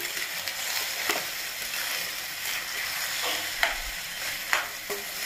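Sprouted moth beans with potatoes and tomatoes sizzling in oil in a steel kadhai while a steel spoon stirs them, scraping and clinking against the pan about once a second over a steady hiss.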